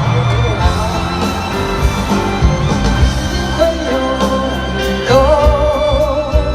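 Live pop-rock band playing between sung lines of a medley, over a steady low beat. About five seconds in, a voice takes up a long held note with vibrato.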